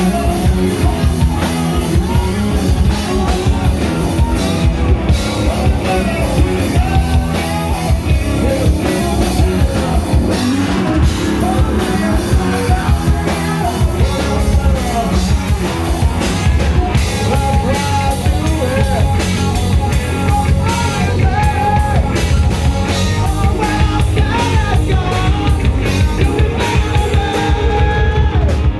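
Rock band playing live: a drum kit keeps a steady, dense beat under amplified instruments, with a melodic line over the top.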